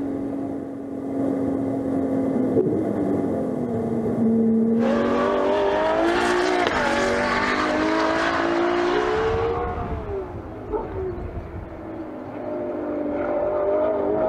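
Ferrari 812 Competizione's 6.5-litre naturally aspirated V12 running on track: steady at first, then revving up with its pitch climbing for several seconds, easing off and dropping back about ten seconds in, and picking up again near the end.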